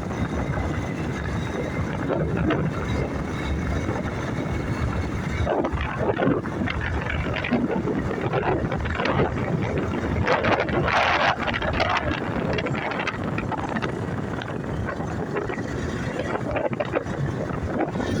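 Wind rushing over the microphone on a moving motorbike, with the motorbike's engine running underneath, and a few louder surges, the biggest about ten to twelve seconds in.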